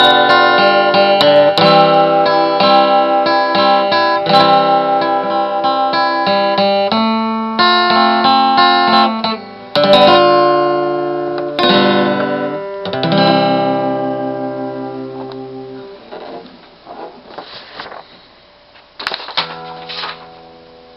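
Acoustic guitar playing the closing chords of the song, strummed and ringing. The chords fade out about three-quarters of the way through, leaving only a few faint sounds.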